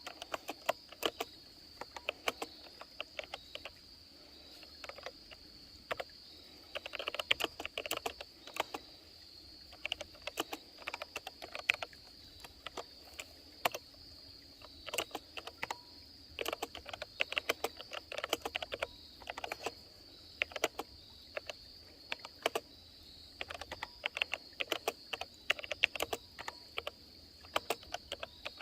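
Typing on a Freewrite Alpha keyboard: irregular runs of quick key clicks with short pauses between them. Insects keep up a steady high drone underneath.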